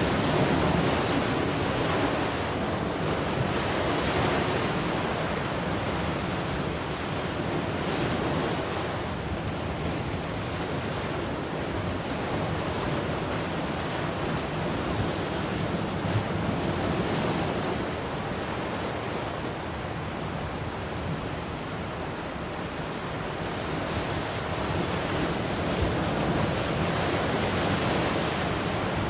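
Ocean surf: a continuous wash of waves breaking and running up the shore, swelling and easing every several seconds.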